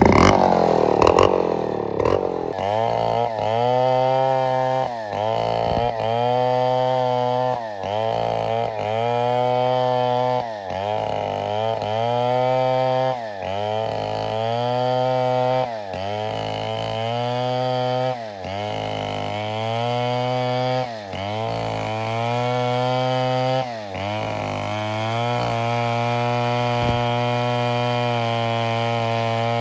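Chainsaw cutting into wood at high revs, its pitch dipping and recovering about once a second as the chain bites under load. For the last few seconds it runs steadily without the dips.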